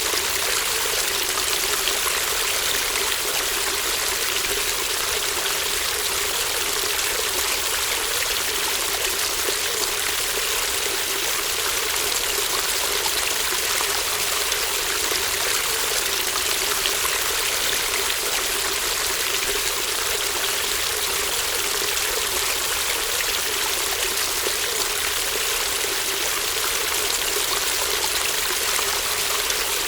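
Shallow brook babbling over stones: a steady, even rush of flowing water with a bright hiss and a fluttering low gurgle, never pausing.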